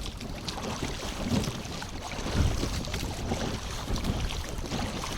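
Wind buffeting the microphone in a low, uneven rumble, with small waves slapping against the boat and scattered light knocks.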